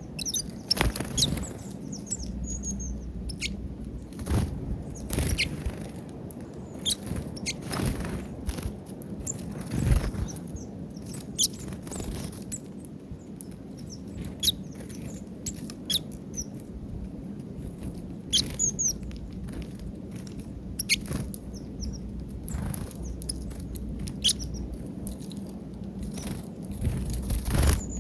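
Birds pecking and scrabbling at peanuts on a feeder: irregular sharp taps and scratches, with a few short high chirps.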